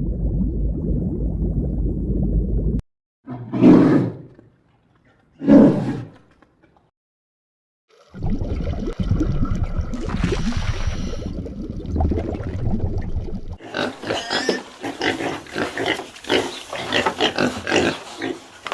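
A series of wild animal calls: a low rumbling call, two short calls about two seconds apart, a longer low call, then near the end a fast run of short, sharp calls.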